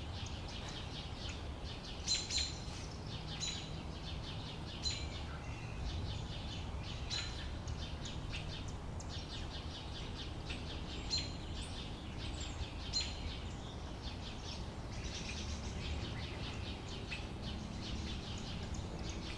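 Birds chirping, short high calls repeated every second or two, over a steady low background noise.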